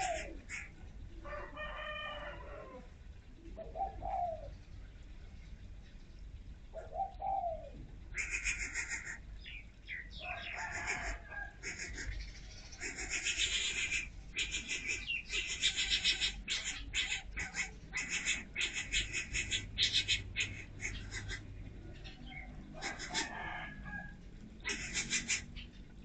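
Birds calling: a few short pitched calls in the first several seconds, then repeated bursts of rapid chattering through the middle and again near the end.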